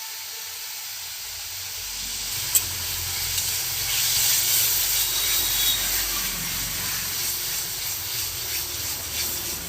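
Spice paste sizzling as it fries in hot oil in a pan, a steady hiss that grows louder about two seconds in, with a low rumble under it and one sharp click.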